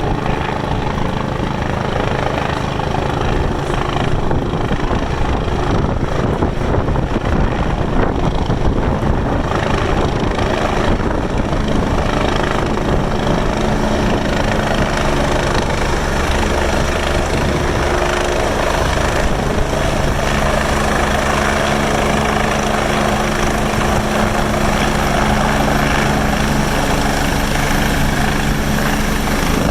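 Medical air-ambulance helicopter's engine and rotor running: a loud continuous whir with a steady low hum, growing a little fuller about halfway through.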